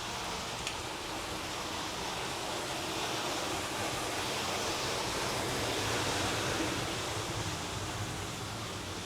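Rushing water, a steady hiss that grows louder to a peak about six seconds in and then eases off.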